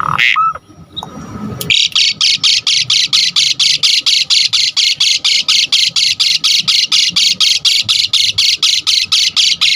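Asian pied myna (jalak suren) calling: a couple of short whistled notes, then from about two seconds in a fast, harsh, rasping chatter of notes repeated about five times a second.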